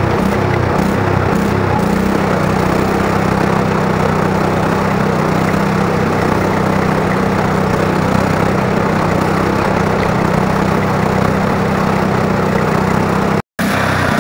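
Craftsman lawn tractor's small engine running as the tractor is driven, uneven for the first couple of seconds and then a steady hum. The sound cuts out completely for a moment near the end.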